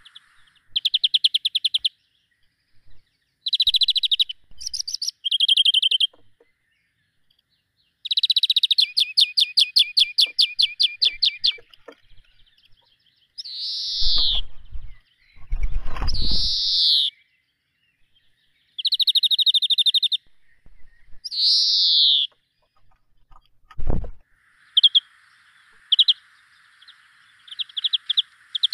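Captive birds chirping in quick repeated trills, with a few loud calls sliding down in pitch midway through, and a dull thump near the end.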